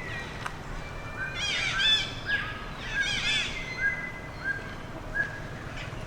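Baby monkey crying: two quick runs of high, arching cries, then a few short single squeaks.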